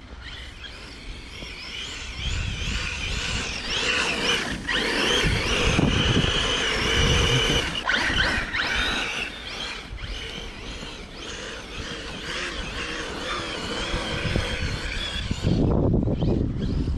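Arrma Kraton 6S EXB RC monster truck's brushless electric motor whining, its pitch rising and falling over and over as the throttle is worked, with a low rumble underneath as it drives through snow.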